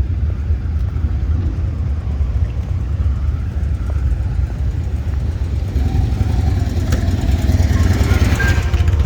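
Motorcycle engine running with a steady low rumble, growing louder and fuller in the last few seconds.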